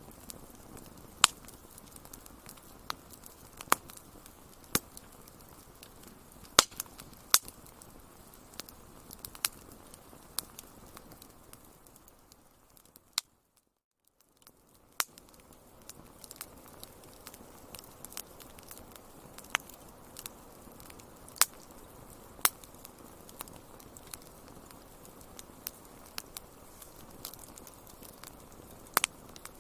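Wood fire crackling: irregular sharp pops and snaps over a soft steady hiss. About thirteen seconds in, the sound briefly fades to near silence and then comes back.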